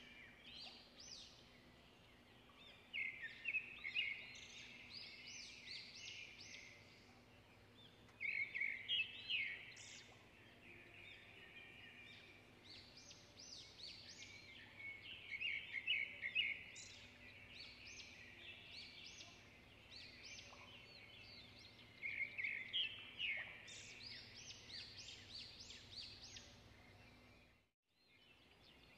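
A small bird chirping and twittering in repeated bursts of quick high notes, over a faint steady hum.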